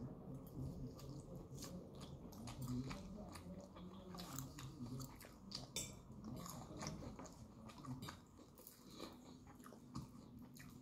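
A person chewing and biting mouthfuls of Russian salad (egg, tuna, beans, peas in mayonnaise) eaten by hand, close up: many small mouth clicks and smacks.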